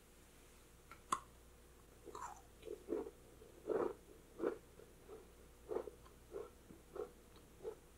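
Biting into a crisp icebox cookie and chewing it. There is a sharp snap about a second in, then muffled chewing at about three chews every two seconds.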